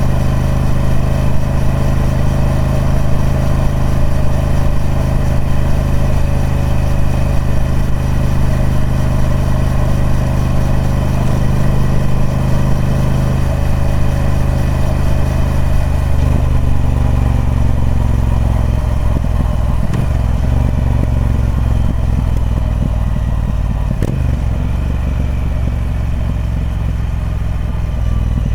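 Triumph Speed Twin 1200's 1200cc parallel-twin engine running through its stock exhaust. The note is steady at first, then drops to a lower, rougher beat a little past halfway, and the pitch slides down again near the end.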